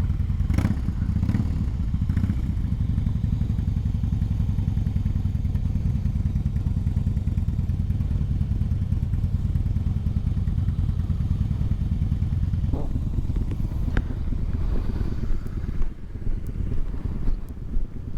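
Motorcycle engine running at a low, steady rumble, with a few sharp clicks early on and one about two-thirds of the way through; in the last few seconds the sound turns choppy and uneven.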